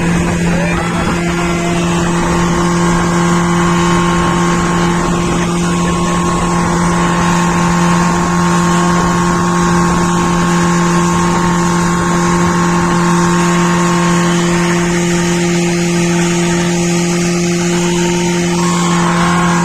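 Motorboat engine running steadily at one even pitch.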